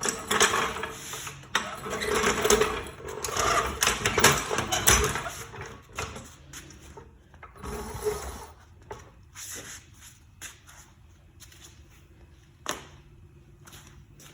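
Metal clattering and rattling as a floor jack is wheeled and shoved across a garage floor. The rattling is loudest over the first six seconds, then thins to scattered knocks, with one sharp click near the end.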